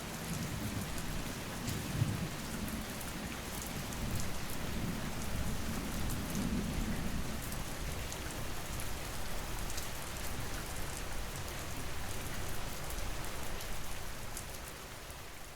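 Steady heavy rain, with low rumbles of distant thunder during the first half; the rain fades a little near the end.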